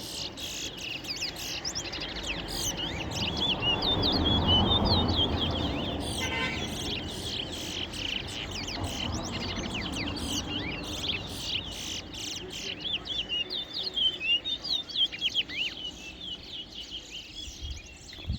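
Towa-towa finches singing in a bird-song race: quick, repeated, sweeping chirps and twittering phrases, each full song tallied by the judges. A low background rumble swells for a few seconds early on.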